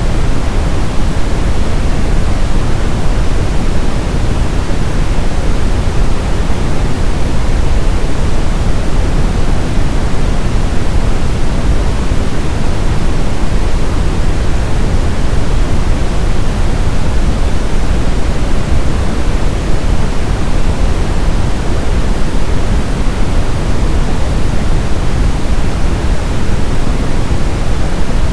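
Brown noise: a steady, deep hiss with most of its weight in the bass, unchanging throughout, like a distant rumble or waterfall.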